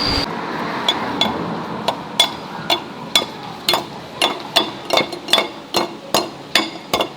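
A steady machine noise with a high whine cuts off just after the start. It is followed by a run of light, ringing metal-on-metal taps, roughly two a second at an uneven pace, like a hammer tapping on steel gearbox parts.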